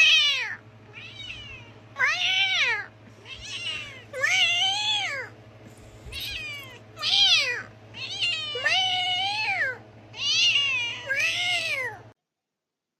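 Cat meowing over and over, about ten drawn-out meows that each rise and then fall in pitch, louder and softer ones in turn. The sound cuts off abruptly near the end.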